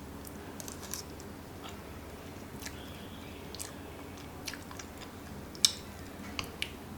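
Scattered light clicks and crackles of close-miked food handling or eating, over a faint steady room hum, with one sharper click about five and a half seconds in.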